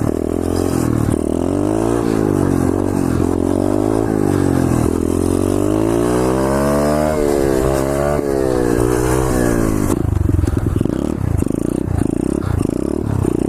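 Single-cylinder four-stroke motorcycle engine under way, its pitch climbing and dropping back again and again as it is revved and eased off. After about ten seconds the note turns low and choppy.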